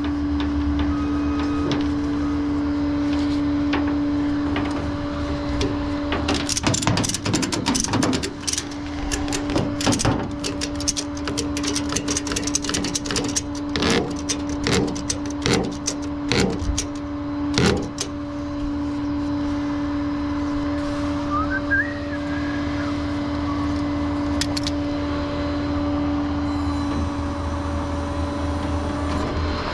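Tow truck idling with a steady hum, and a run of sharp clicks and knocks from about six to eighteen seconds in.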